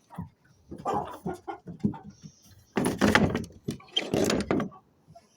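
Chickens clucking in their coop with a string of short, irregular calls, and two louder, harsher bursts about three and four seconds in.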